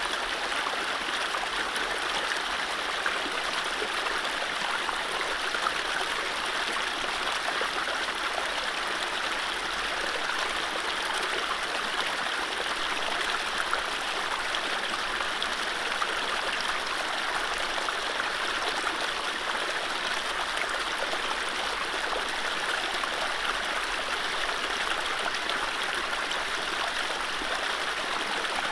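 Mountain stream running over low rapids: a steady, even rush and babble of water with no birdsong.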